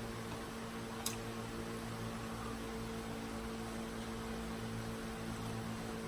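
Steady electrical mains hum under a faint hiss, with a single sharp click about a second in.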